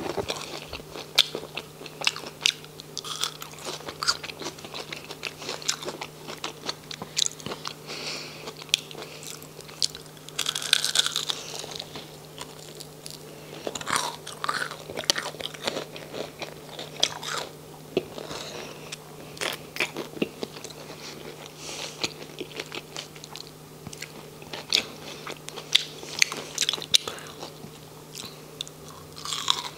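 Crunching and chewing of crispy battered onion rings: bite after bite breaks the fried batter in sharp, irregular crackles, with softer chewing in between.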